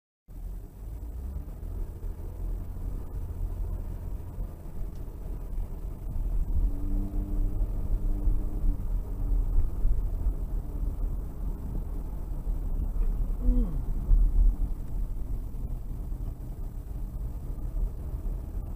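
Low, steady rumble of a car driving, road and engine noise, with a few faint pitched sounds about midway.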